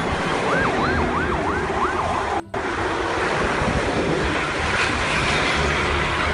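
Police siren with a fast rising-and-falling yelp, about three cycles a second, lasting about the first two seconds. Under it runs a steady rushing noise that keeps going after the siren stops and breaks off briefly about two and a half seconds in.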